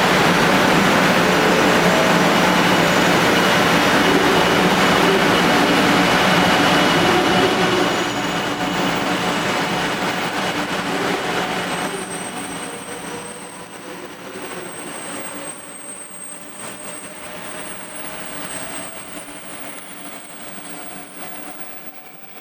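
500 series Shinkansen train pulling away: loud rushing noise that drops off after about eight seconds and again a few seconds later, then fades out with a faint rising whine as the train accelerates away.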